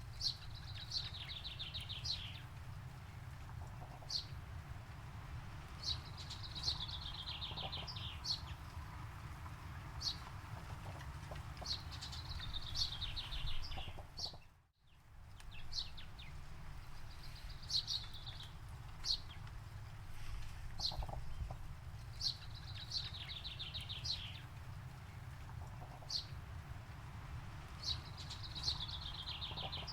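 Songbird repeating a fast descending trilled phrase every five or six seconds, with short single chirps between, over a steady low rumble. The sound drops out briefly about halfway through.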